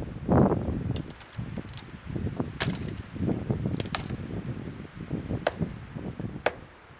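Strong gusting wind buffeting the microphone in swells, with several sharp clicks or taps scattered through it.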